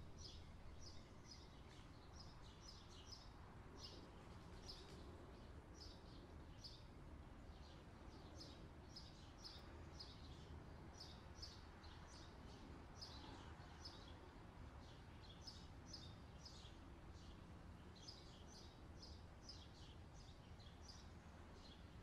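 Faint, high-pitched bird chirping: short chirps a few times a second in loose runs, over a low steady rumble.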